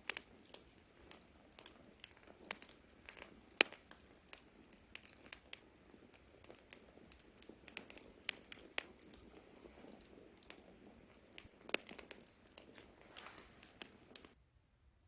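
Wood campfire crackling, with irregular sharp pops and snaps over a faint hiss of burning. The sound cuts out almost completely for about a second near the end.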